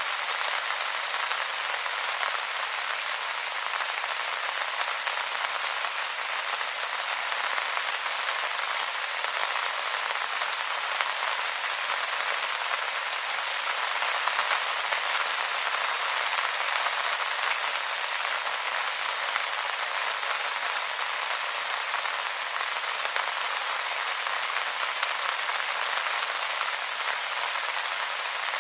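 Steady rain falling on wet leaves: an even, mostly high-pitched hiss of many fine drops, with no change in strength.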